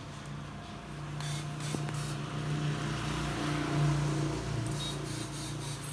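A motor running with a steady low hum that swells to its loudest about four seconds in and then eases off, with a hiss over the middle of it.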